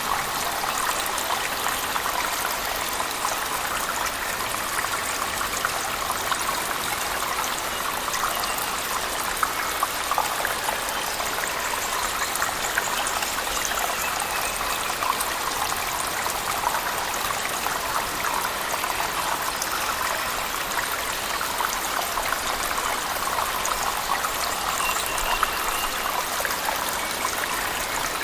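Steady rushing and splashing of a waterfall in a cave, mixed with heavy rain, a constant even wash of water noise with small drips and splashes scattered through it.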